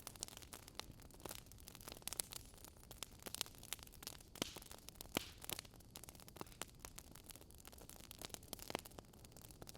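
Wood fire crackling: burning logs giving irregular sharp pops and snaps, several a second, over a low steady hiss.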